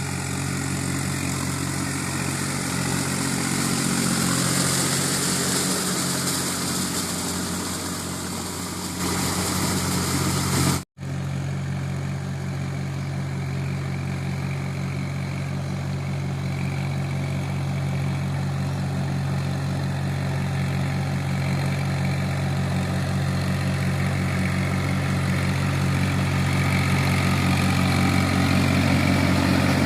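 New Holland 4710 tractor's three-cylinder diesel engine running steadily, growing slightly louder over time. The sound cuts out for a split second about eleven seconds in.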